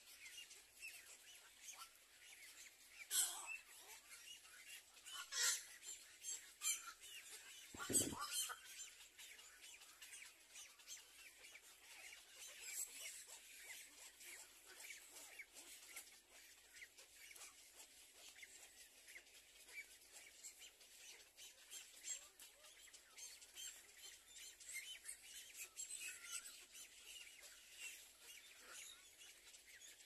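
A few short, harsh bird calls in the first third over a faint, steady outdoor background of fine ticking and hiss; the loudest, about eight seconds in, comes with a low thump.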